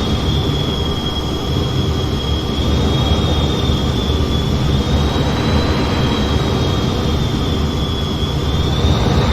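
Steady F-15 jet engine and airflow noise in flight: a constant low rumble with two steady high-pitched tones over it.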